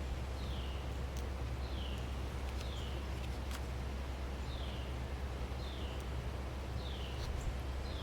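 A bird repeating a short, falling chirp about once a second over a steady low rumble, with a few faint clicks.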